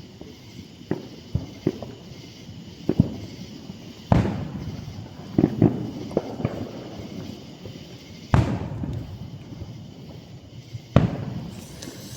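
Aerial fireworks bursting in a series of sharp booms. The loudest come about four, eight and eleven seconds in, and each trails off in an echo.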